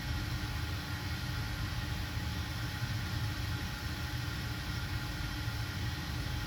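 Steady running hum of a cobbler's workshop machine motor, with several constant tones over a strong low drone and no change in speed.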